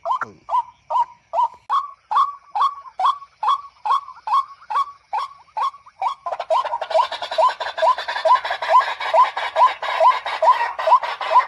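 White-breasted waterhen calls: short, evenly repeated notes, about two a second. About six seconds in, a steady hiss joins the calls.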